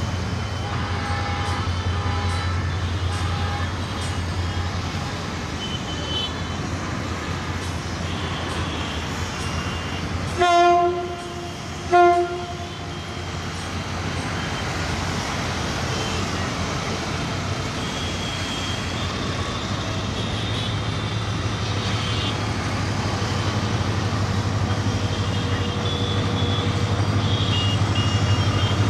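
Diesel locomotive horn of a Bangladesh Railway commuter train sounding twice, a blast of under a second and then a shorter toot just after, over the steady rumble of the running train, which grows louder toward the end.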